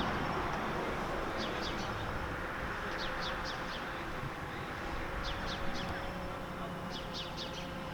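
Small birds chirping: quick downward-sliding high calls in clusters of two or three, repeated several times, over a steady low background rumble.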